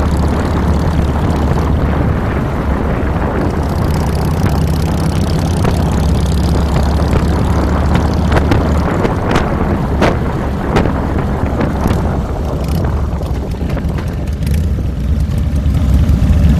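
2007 Harley-Davidson Fat Boy's V-twin engine running under way, a steady low rumble mixed with wind rush on the handlebar-mounted microphone. A few sharp clicks come about halfway through. Near the end the wind noise falls away as the bike slows, leaving the engine's rumble.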